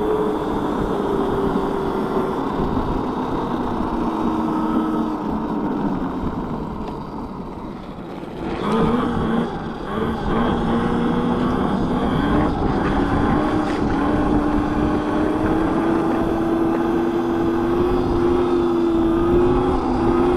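Electric mini bike's motor whining while it is ridden, over wind and tyre noise. The whine drops and fades about six to eight seconds in as the bike slows, then picks up again with a few knocks and climbs slowly in pitch.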